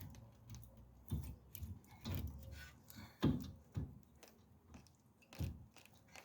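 Scattered metal knocks and clunks, about five in all, of a brake caliper being handled and fitted back over the brake pads.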